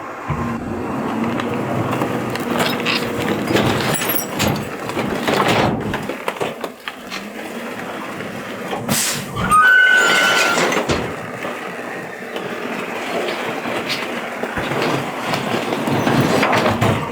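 Garbage truck running, with irregular rattles and clanks of its machinery and a sharp loud bang about nine seconds in, followed by a brief whine.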